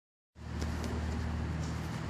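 Steady low motor hum with a layer of outdoor background noise, starting abruptly a moment in after a brief silence.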